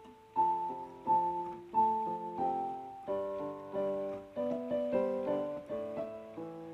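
Background music: a piano playing a slow melody over chords, with notes struck about every 0.7 seconds and left to ring.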